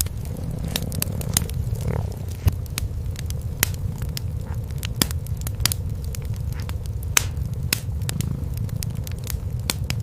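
Wood fire in a fireplace crackling with frequent sharp pops, over the low, continuous purring of cats.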